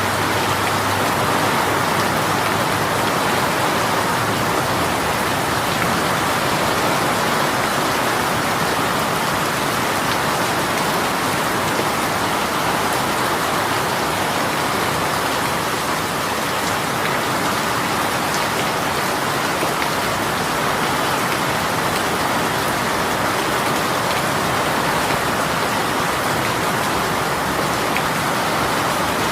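Heavy rain shower falling steadily, a constant even hiss of rain on surfaces with no let-up.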